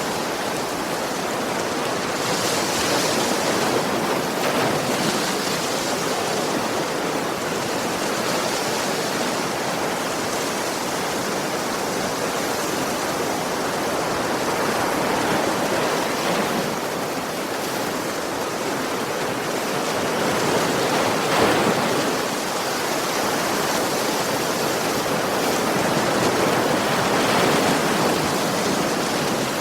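Sea waves breaking and washing on a beach in a continuous rush of surf, swelling and easing every several seconds.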